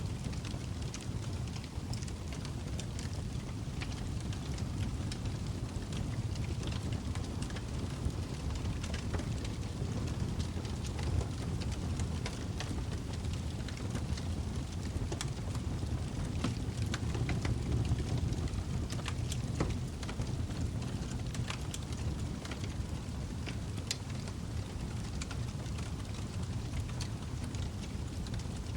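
Log fire burning in a fireplace: a steady low rumble of flames with frequent small, scattered crackles and pops.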